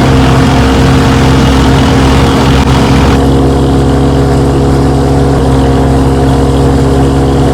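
Tractor engine running steadily at a constant speed. About three seconds in, the higher hiss fades out, leaving the low, steady engine drone.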